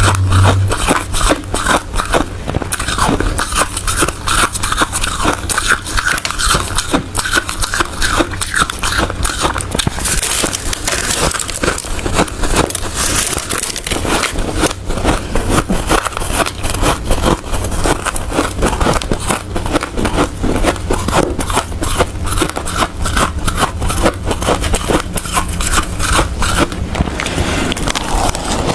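A person chewing ice close to the microphone, in continuous, dense, crunchy bites.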